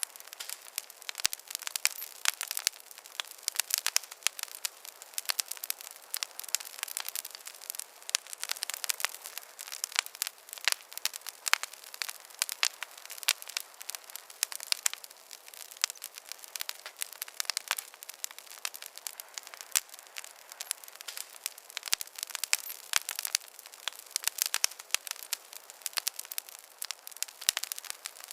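Wood campfire crackling steadily, with dense irregular pops and snaps over a soft hiss.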